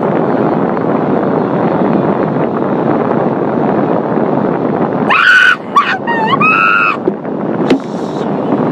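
Automatic car wash scrubbing and spraying the car, a steady rushing heard from inside the cabin. About five seconds in, a woman breaks into loud, high-pitched shrieks, and a sharp knock follows near the end.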